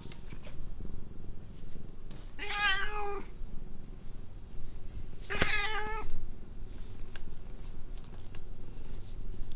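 A domestic cat meowing twice, about three seconds apart, each call under a second long with a slightly wavering pitch.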